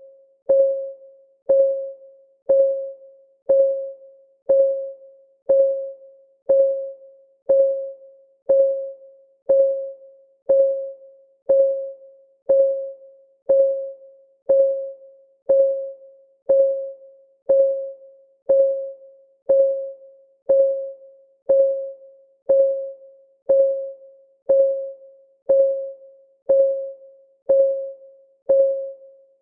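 Clock-ticking sound of a countdown timer: a short, pitched tick once a second, each one dying away quickly, evenly spaced throughout.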